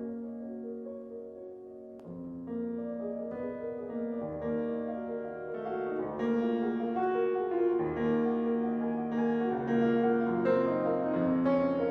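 Solo piano playing classical music. A soft held passage picks up about two seconds in with new notes and grows louder and busier from about halfway through.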